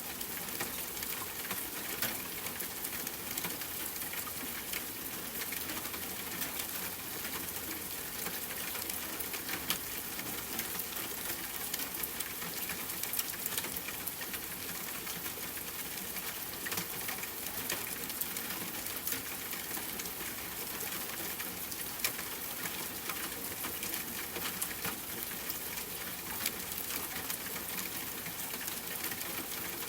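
Steady rain pattering on a tent, mixed with campfire crackling: frequent sharp snaps and pops over a continuous even hiss.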